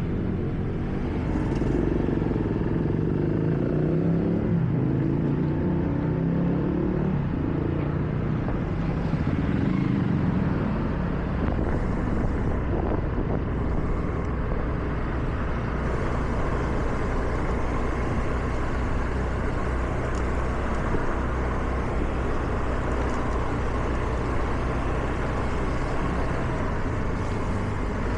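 Car driving on wet roads: a steady low rumble of engine and tyres with an even hiss of road noise. Over the first ten seconds or so an engine note rises and falls, then the sound settles into steady cruising road noise.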